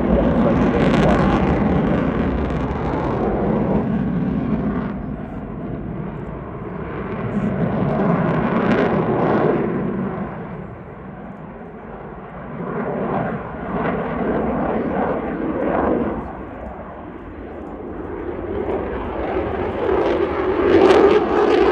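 Boeing F-15QA fighter jet's twin General Electric F110 engines, a loud jet roar that swells and fades several times as the aircraft manoeuvres past, rising again near the end.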